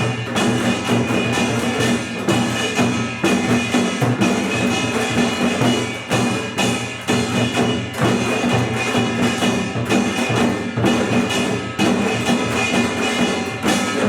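Korean pungmul percussion ensemble playing without pause: a kkwaenggwari small gong ringing over janggu hourglass drums and buk barrel drums in a dense, driving rhythm.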